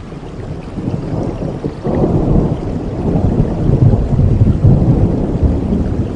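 Thunder rumbling over steady rain: a deep roll that swells up about two seconds in and keeps going.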